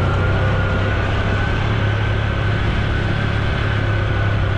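Honda Super Cub C125's single-cylinder four-stroke engine and exhaust running steadily under way, with a thin high whine that rises slightly in pitch.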